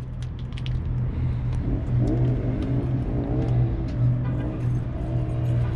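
Car engine running with a steady deep rumble, its pitch wavering up and down a few times in the middle.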